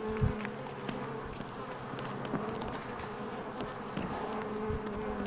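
Honey bees from a freshly captured swarm buzzing steadily around the swarm box, with a low thump about a third of a second in.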